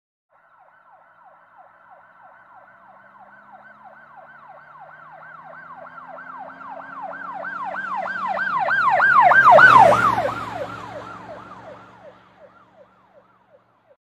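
An emergency vehicle's siren on a fast yelp, about three to four sweeps a second, approaching and passing by. It grows louder to a peak about ten seconds in, drops in pitch as the vehicle passes, then fades away, with the vehicle's engine heard under it.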